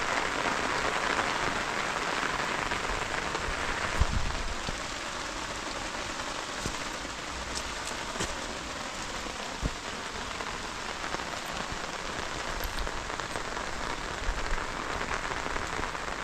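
Steady rain falling, with scattered drips and a dull thump about four seconds in.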